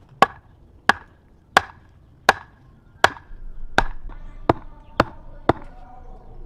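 A blade chopping with nine sharp strikes, about one every 0.7 seconds, coming a little faster near the end.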